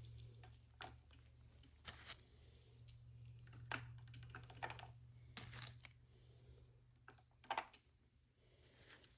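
Faint, irregular light clicks and taps of small plastic miniature toy pieces, such as tiny toy eggs and an egg carton, being handled, over a low steady hum.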